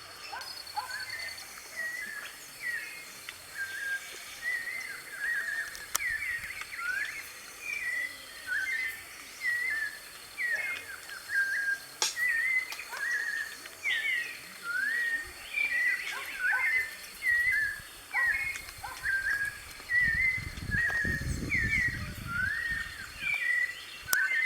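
White-necked thrush (sabiá-de-coleira) singing a continuous run of short, quick warbled phrases.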